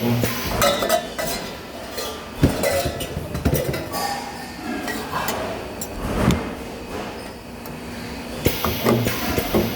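Metal parts clanking and clinking at a spot welder, with sharp knocks scattered through. A short low hum comes near the start and again near the end.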